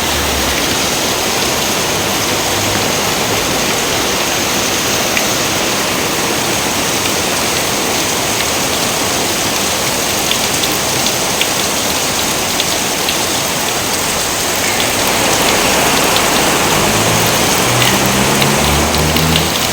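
Steady heavy rain with distinct drops pattering through it, growing a little louder near the end. A few soft low notes sound at the start and again near the end.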